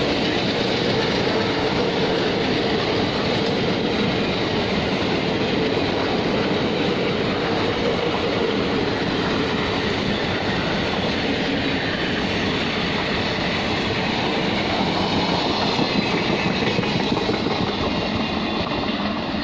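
Passenger coaches of a train rolling past close by: a steady rumble and clatter of wheels on the rails, easing slightly near the end as the last coach goes by.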